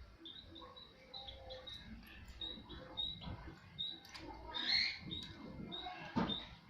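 White-headed munia giving short, thin, high peeps in quick succession, with one louder call about two-thirds of the way through and a dull knock near the end.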